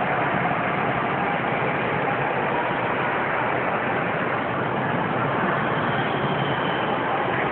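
Steady, dense background din of a large indoor shopping mall, an even wash of noise with no single event standing out.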